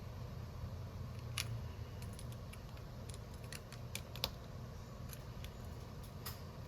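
Scattered light clicks and taps of small hand tools against phone parts during a screen repair, with one sharper click about four seconds in, over a steady low hum.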